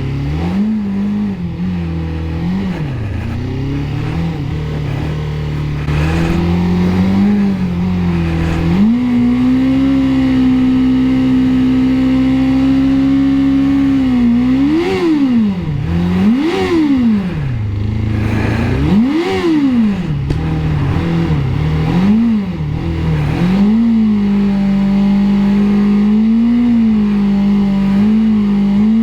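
Suzuki GSX600F inline-four engine under way, its revs rising and falling in a series of swoops with short steady stretches, over wind and road noise. The bike is not running right and is down on power, which the rider puts down to the fuel tap having been left off.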